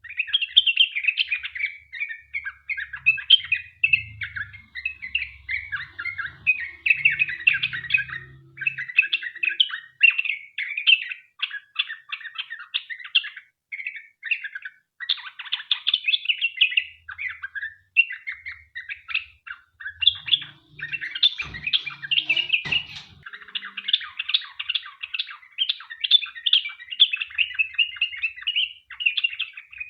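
Sooty-headed bulbul (trucukan) singing a long, rapid chattering song, runs of quick notes with hardly a pause. A few sharp knocks come about two-thirds of the way through.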